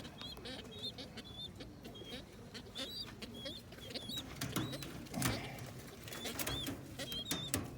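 Young pigeons peeping with short, high, wavering squeaks, repeated every second or so, among scattered sharp clicks and taps. A louder low knock comes about five seconds in.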